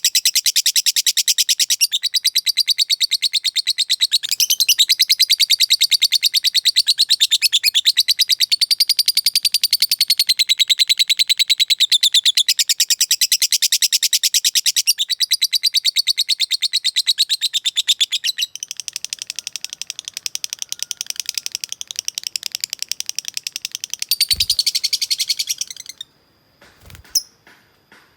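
Lovebird singing its ngekek, the long unbroken chattering trill: a very rapid run of high, evenly repeated notes. It softens past the middle, swells again, then stops abruptly about two seconds before the end, followed by a few faint clicks.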